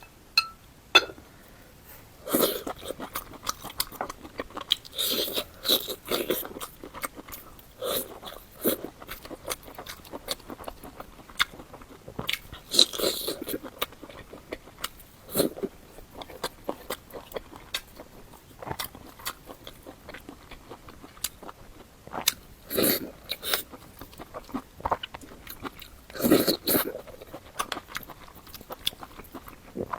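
Close-miked eating: a person chewing and biting into eggplant soupy rice and stir-fried pork, with irregular wet mouth clicks and smacks and a few louder bites.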